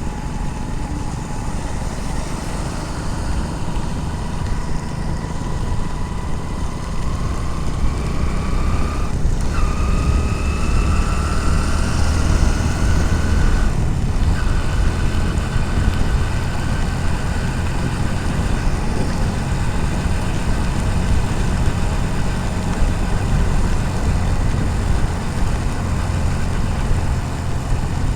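Motorcycle engine running on the move, with steady wind and road noise. Its whine rises slowly through the first half, broken briefly twice, about a third of the way in and again about halfway.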